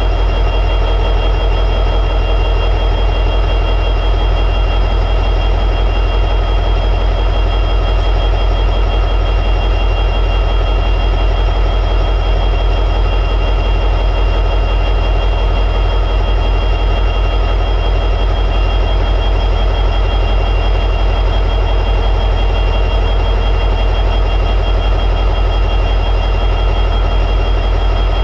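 EMD 710G3B two-stroke diesel prime mover of an SD60E locomotive running steadily at high idle. It makes a deep, even throb with a thin, steady high-pitched whine above it.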